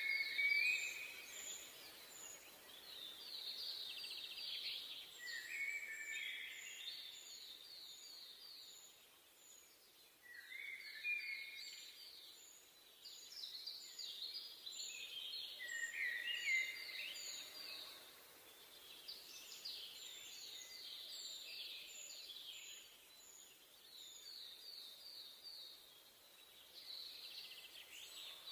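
Songbirds singing in a forest: rapid trilled phrases repeat every few seconds, with a thin, high chirp repeating steadily behind them over a faint, even hiss.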